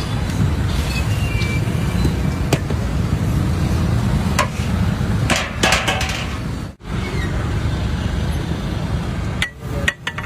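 Steady low rumble of roadside traffic, broken by a few sharp clicks and cutting out briefly about two-thirds of the way through.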